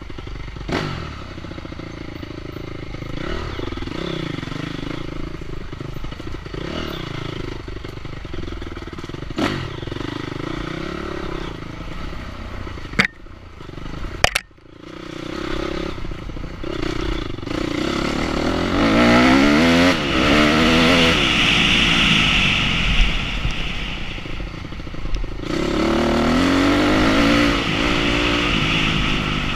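Enduro motorcycle engine revving up and down as it rides, with clattering and two sharp knocks about halfway through. It runs hardest in the second half, its pitch repeatedly climbing and dropping.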